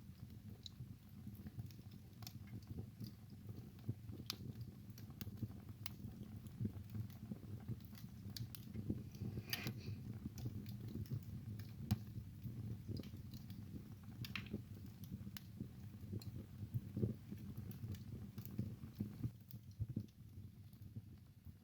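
Wood fire burning in a fireplace: a steady low rumble of the flames with irregular crackles and sharp pops from the burning wood, a few of them louder.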